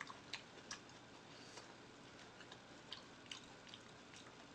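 Near silence with faint, irregular soft clicks of a mouth chewing food, about seven in all, spaced unevenly.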